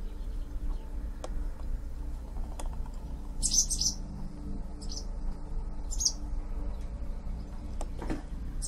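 Small birds chirping: three short clusters of high chirps a second or so apart, over a steady low hum.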